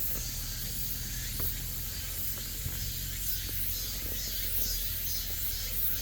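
Steady high-pitched hiss of a summer insect chorus, with a low rumble underneath.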